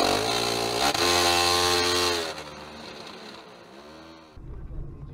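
A car engine revving high and loud, its pitch dipping about two seconds in before it drops back to a quieter running sound. About four seconds in it cuts abruptly to a steady low road rumble.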